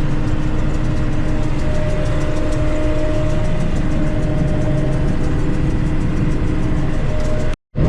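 John Deere 8820 combine running steadily while harvesting wheat, heard from inside the cab: a constant engine and machinery drone with a steady hum. The sound cuts out for a moment near the end.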